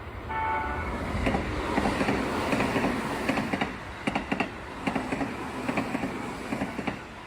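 A commuter train sounds a short horn blast, then passes with a steady clickety-clack of its wheels over the rail joints, the clacks coming in quick pairs.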